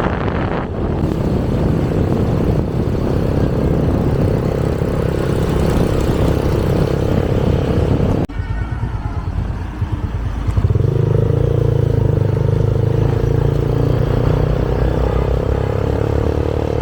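Motorbike being ridden on the road: engine running under a heavy rush of wind and road noise. The sound breaks off sharply about eight seconds in, and a couple of seconds later a steadier, stronger engine hum takes over.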